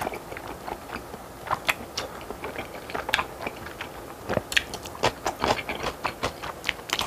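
Close-miked chewing of a mouthful of thick, saucy noodles: irregular wet mouth clicks and smacks.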